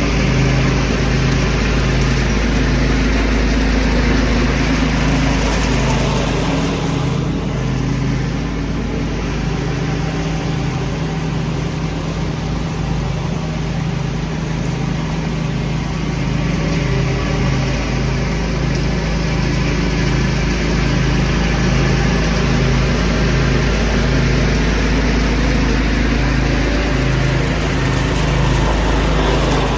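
Small engine running steadily while vacuuming leaves, easing off a little for several seconds about seven seconds in.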